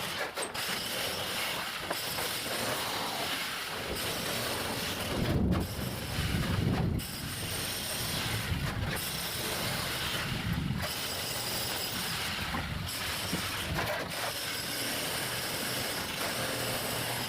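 Excavator at work: a steady mechanical clatter and rattle, with louder low rumbling surges about five to seven seconds in and again near eleven seconds.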